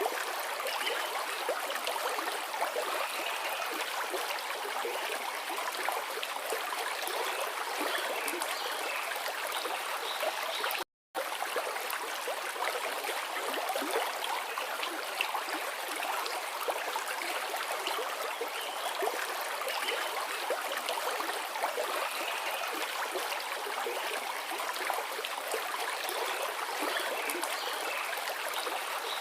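Forest river flowing, a steady rush of babbling water with no low rumble. The sound drops out completely for a split second about eleven seconds in.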